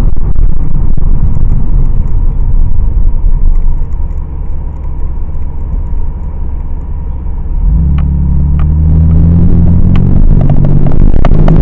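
Inside a moving car's cabin: a loud low rumble of tyres and engine. It eases off about four seconds in, then the engine note comes up steady as the car pulls ahead, with a few sharp clicks.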